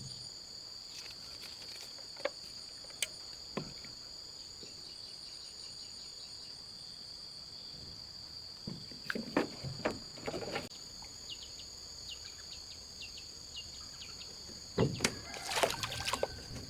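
Steady high-pitched insect chorus, with scattered knocks and a few louder bouts of clattering midway and near the end.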